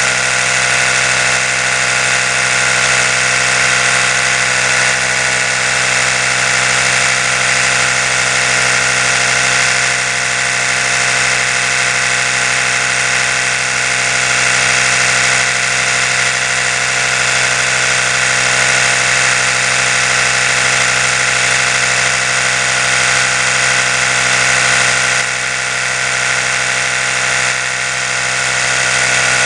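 Oral-B electric toothbrush motor running continuously: a steady buzzing hum made of many even tones, briefly a little quieter near the end.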